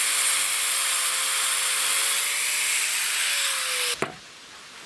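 Angle grinder cutting through an aerated-concrete block: a steady grinding noise with the motor's whine under it. The whine sags slightly just before the sound stops abruptly about four seconds in.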